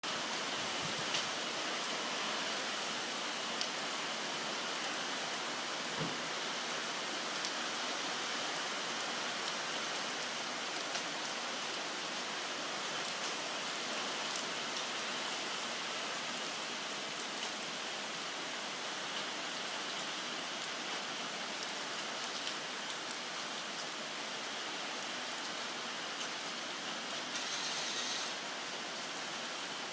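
Typhoon rain falling steadily: an even hiss of rain with scattered sharper drop ticks.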